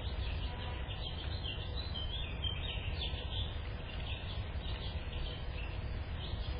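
Small birds chirping and twittering in quick, repeated short notes, over a steady low rumble.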